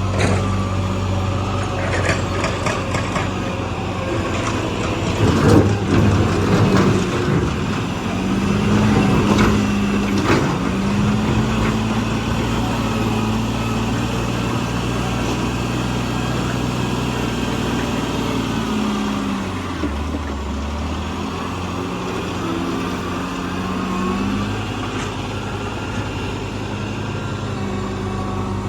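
Heavy diesel engine of earthmoving machinery running, revving up and easing back down several times, with a run of sharp knocks and clanks about five to seven seconds in and another near ten seconds.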